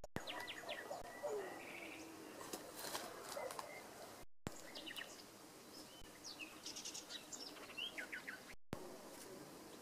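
Songbirds chirping and singing faintly, short high notes and quick trills coming and going, broken by two brief gaps in the sound.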